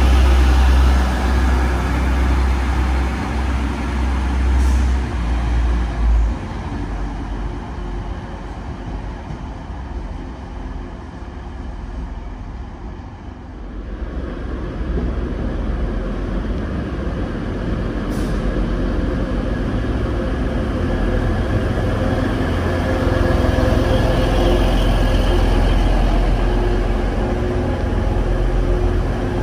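TransPennine Express Class 185 diesel multiple units. One runs past with a heavy low rumble that eases off. From about halfway in, another train comes into the platform, its diesel engine sound building and holding steady as it draws alongside.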